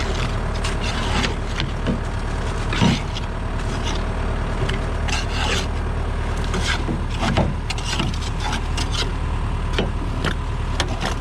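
Hoe scraping wet grass clippings off the underside of a mower deck: a run of irregular scrapes and knocks over a steady low engine hum.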